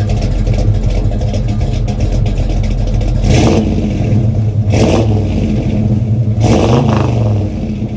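V8 engine of a 1984 GMC C1500 pickup running under way, with three short louder surges about three, five and six and a half seconds in, the last rising and falling in pitch.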